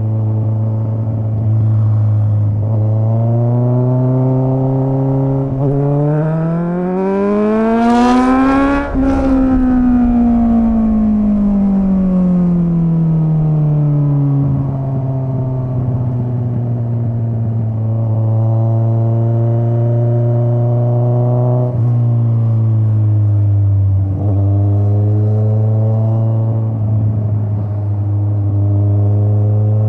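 Straight-piped Kawasaki Z900 inline-four under way. The revs climb in steps to a peak about nine seconds in, then slowly fall away, and a shorter rise and drop follows a little past twenty seconds.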